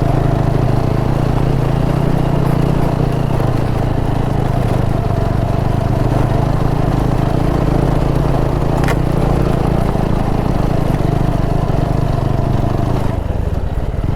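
Vehicle engine running steadily while under way, easing off near the end.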